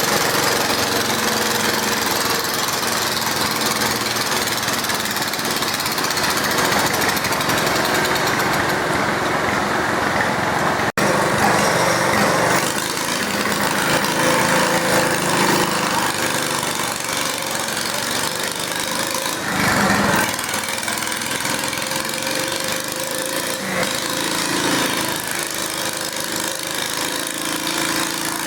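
Garden tractor engine running hard under load, pulling a weight sled, with the pitch and level shifting as it works. The sound cuts out for an instant about eleven seconds in.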